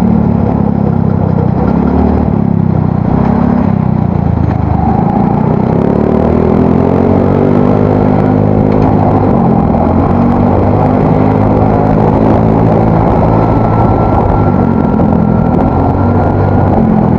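Yamaha Mio Soul GT scooter engine through an aftermarket exhaust, accelerating under throttle while riding. The pitch climbs, then holds fairly steady. The exhaust note is deep rather than tinny.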